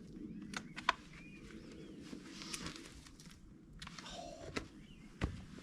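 Scattered sharp clicks and knocks of objects being handled, the loudest near the end, with a few faint bird chirps.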